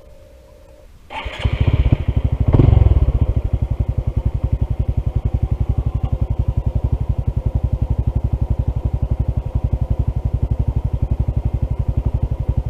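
A Honda CT125's single-cylinder engine starts about a second in, revs briefly and settles into a steady idle. The engine has a lower-end knock, which the riders take for a rod bearing, that shows only under load; at idle it runs without knocking.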